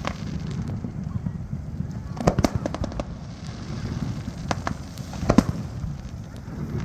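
Aerial fireworks going off: sharp bangs and crackling reports in clusters, one right at the start, a quick run of several a little past two seconds in, and a couple more around five seconds in, over a steady low rumble.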